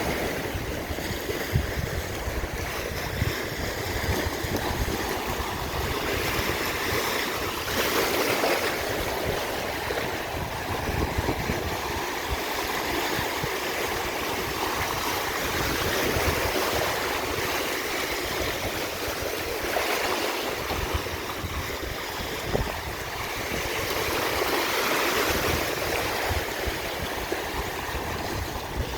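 Sea waves breaking and washing on a shore, a steady rush of surf that swells and eases every few seconds.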